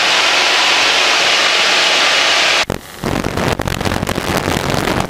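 Cabin noise of a small single-engine Cessna in flight: a loud, steady hiss that cuts off abruptly about two and a half seconds in. It gives way to a lower, rougher rumble with irregular knocks.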